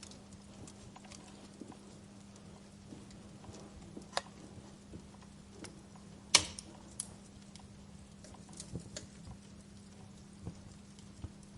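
Wood fire burning in a fireplace, crackling with scattered small irregular pops over a soft hiss. One sharp pop stands out about six seconds in, with a smaller one about four seconds in.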